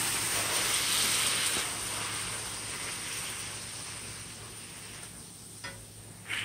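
Turkey burgers sizzling in a Blue Diamond frying pan as they are pressed flat with a spatula and their juices squirt out onto the hot pan; the sizzle slowly dies down, with a light click near the end.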